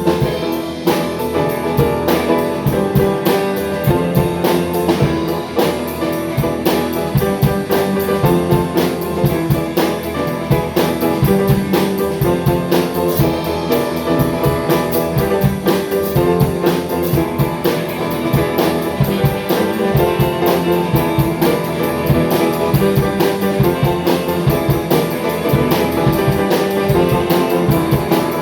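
A band playing an instrumental passage on drum kit and guitar, with a steady fast beat.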